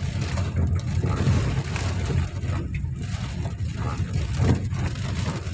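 Heavy rain: an even hiss over a loud, steady low rumble.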